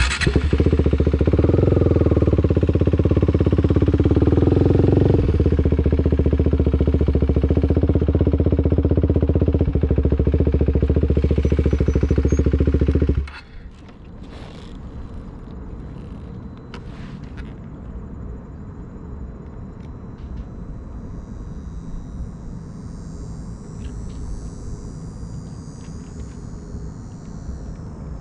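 Motorcycle engine running loud and steady at low speed, with a slight rise in pitch a couple of seconds in. It cuts off suddenly about thirteen seconds in, leaving a low outdoor background.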